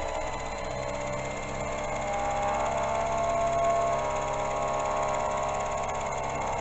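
Milling machine running at about 1000 RPM on power feed, its cutter taking the final pass through a steel block: a steady machine hum with a higher held tone that comes in about a second in.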